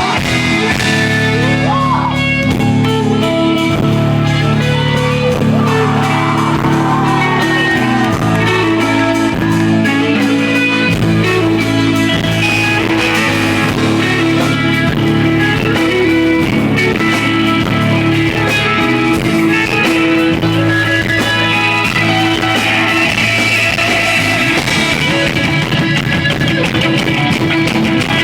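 Rock band playing live and loud, electric guitars to the fore, recorded from the audience on an iPod.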